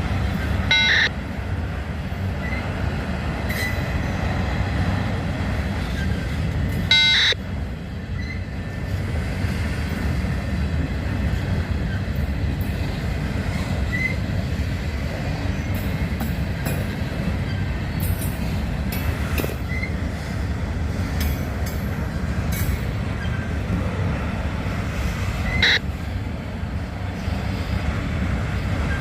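Freight train rolling by with a steady low rumble, broken by three short high-pitched squeals: about a second in, about seven seconds in, and near the end.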